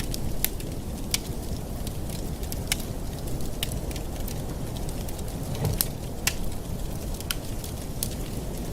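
Fire burning in a fireplace: a steady low rumble with irregular sharp crackles and pops, a few each second.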